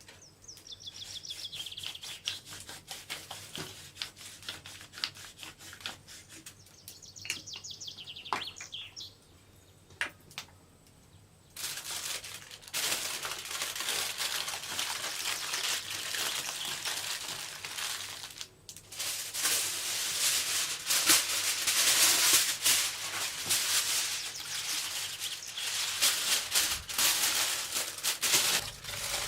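A bird trills twice in quick high chirps, with scattered clicks between. From about twelve seconds a loud, dense crackling rustle takes over and runs on.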